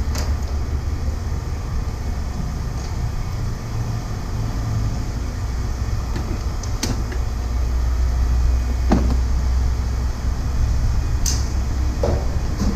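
Low, steady rumble of a running vehicle engine, with a few sharp clicks and knocks scattered through it.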